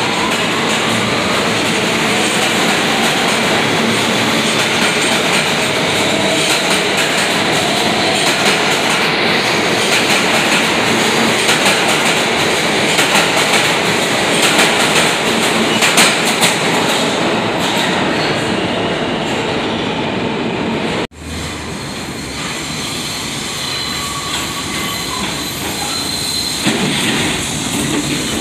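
A train passing close by: steady rail and wheel noise with a run of sharp clicks from the wheels crossing rail joints. It cuts off abruptly about two-thirds of the way through, and a quieter stretch of train noise follows.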